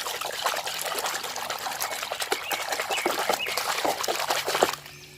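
Water pouring and splashing as muddy toy cars are rinsed, with many small clicks and knocks mixed in; it stops about four and a half seconds in.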